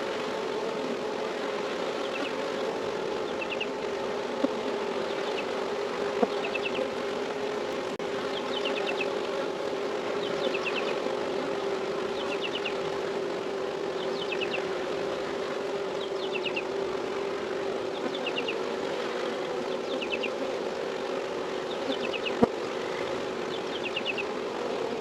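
Honeybee swarm buzzing steadily at the hive. A short high chirp repeats about every two seconds, and a few sharp taps stand out, the loudest near the end.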